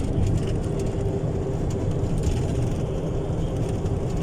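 Car running along a road, heard from inside the cabin: a steady low engine and road rumble with a faint constant hum.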